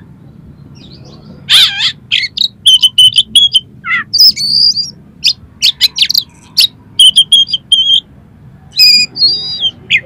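Oriental magpie-robin (kacer) singing loudly in quick bursts of sharp, repeated clipped notes, with short glides and rough, harsh phrases. The song starts about a second and a half in, pauses briefly a little after the middle, and resumes near the end.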